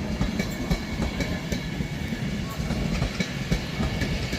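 A pair of Class 350 Desiro electric multiple units running slowly into the station. The wheels click irregularly over rail joints and points, over a low rumble and a faint steady whine.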